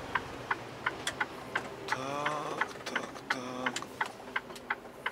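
Light, sharp clicking inside a truck cab, about three clicks a second, with a brief wavering squeak about two seconds in and again a second later.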